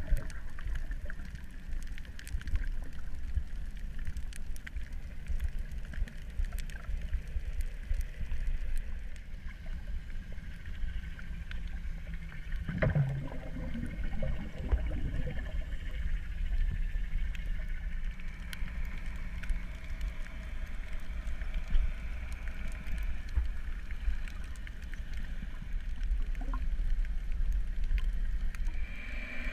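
Underwater recording: a steady low rumble with a faint hum. There is a short gurgling burst about 13 seconds in.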